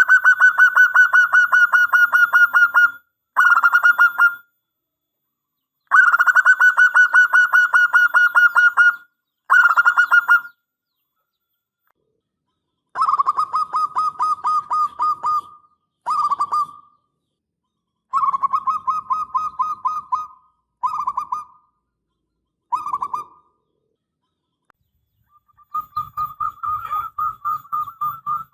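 Perkutut (zebra dove) singing: rapid runs of staccato cooing notes, about seven a second, each long phrase followed by a short one, repeated several times with pauses. The last phrase has a low rumble beneath it.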